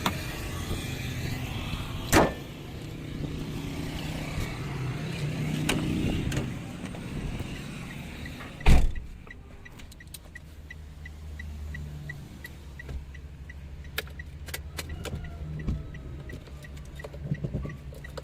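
Sounds around a Toyota Wigo: a steady hiss with two loud thuds, the second about halfway through. After it the sound drops to a low steady hum with a light tick repeating about twice a second.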